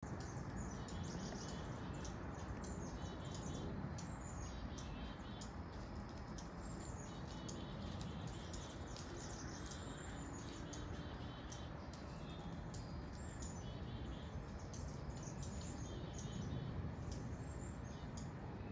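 Small birds chirping: short repeated phrases every few seconds, with scattered sharp high chips, over a steady low background rumble.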